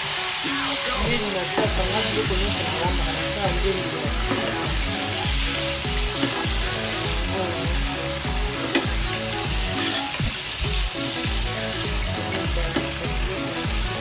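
Small fish (ndakala) frying with onions and tomatoes in oil, sizzling steadily while a spatula stirs and scrapes the pan, with a few sharp taps. Background music with a steady beat plays underneath.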